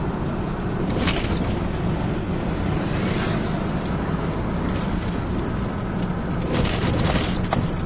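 2007 Ford F-150 pickup driving slowly, its engine and road noise a steady low rumble heard from inside the cab, with a few short knocks and rattles about a second in and again near the end.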